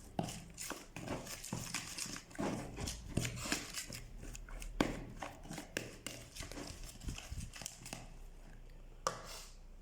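Chermoula being mixed in a bowl: a fast, irregular run of taps and knocks that thins out after about eight seconds, with one last knock near the end.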